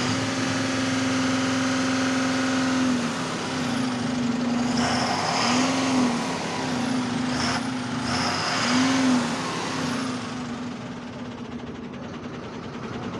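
Ashok Leyland 5525 truck's diesel engine running steadily at raised revs for about three seconds, then revved briefly several times, dropping back after each rev, and settling lower near the end.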